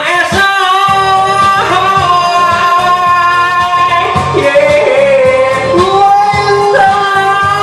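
A singer holds long, sustained notes of a J-pop ballad over instrumental accompaniment.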